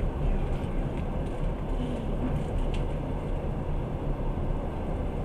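Passenger train running at speed, heard from inside the carriage: a steady low rumble of wheels on rails.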